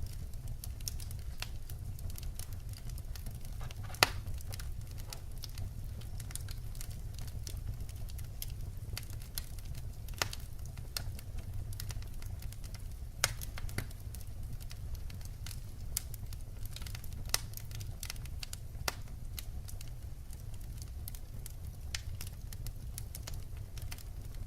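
Wood fire burning: a steady low rumble of flames with scattered sharp crackles and pops of the burning logs, the loudest pop about four seconds in.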